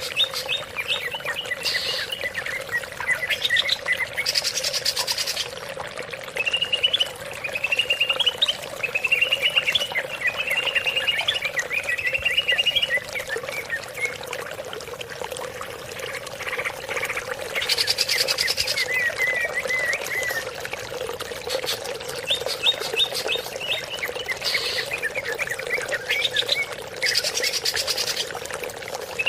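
Greater green leafbird (cucak ijo) singing a continuous run of varied chirps and warbled phrases. Short, fast, buzzy trills break in three times. A steady faint hum lies underneath.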